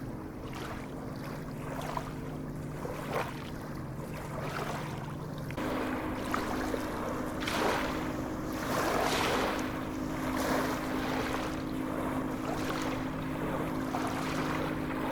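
Sea waves washing, with a bigger surge in the middle, over a steady low motor hum whose pitch shifts about five seconds in.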